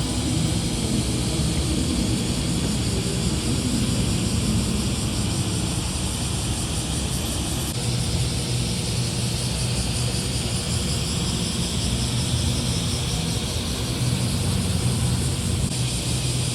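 Engines and exhausts of modified cars running at low speed, a steady low rumble throughout.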